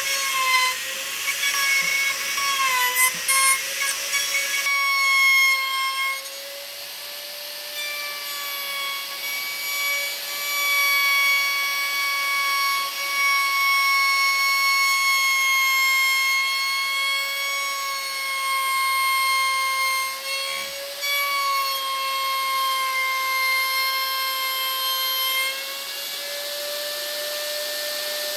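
A high-speed electric power tool working wood, running with a steady high whine. For the first few seconds there is a rough cutting noise as it bites into the wood. The pitch sags briefly under load early on and again about two-thirds of the way through.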